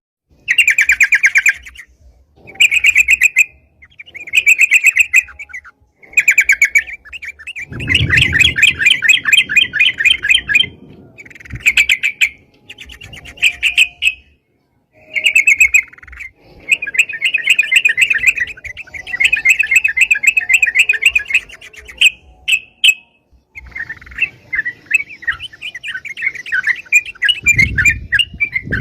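Yellow-vented bulbul (crucukan) singing loud, rapid chattering phrases, each one to two seconds long with short pauses between. The phrases run together into longer stretches of song in the second half.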